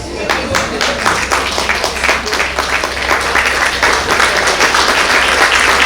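Audience applauding, breaking out suddenly and building up to a steady clapping.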